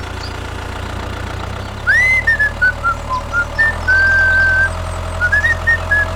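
Low, steady engine hum like a tractor idling. From about two seconds in, someone whistles a short tune over it: a rising swoop, then short hopping notes and a couple of longer held ones.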